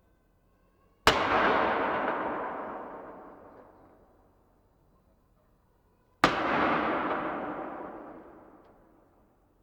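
Two shots of a ceremonial cannon salute, about five seconds apart, the first about a second in. Each sharp report echoes away over about three seconds.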